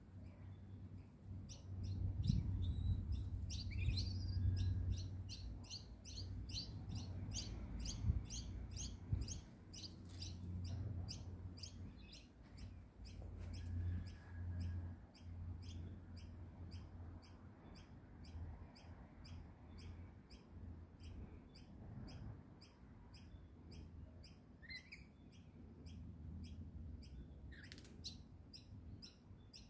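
A bird repeating a short, high chirp about three times a second, with a couple of calls sliding down in pitch near the end. A low rumble on the microphone runs underneath and is loudest in the first few seconds.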